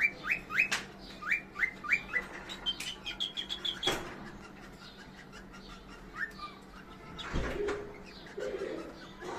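Pet cockatiels chirping: a string of short rising chirps, about three a second, then a quicker run of higher notes ending in a sharp click about four seconds in. After that it is quieter, with a dull thump and a few fainter calls.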